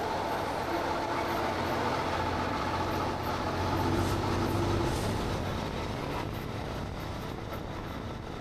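Heavy truck being driven, heard from the cab: a steady diesel engine drone over road noise, swelling slightly about four seconds in and easing after.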